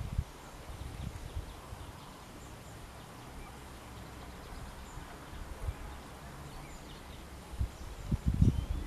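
Faint, scattered bird chirps over a steady outdoor background hiss, with low thumps just after the start and again about eight seconds in.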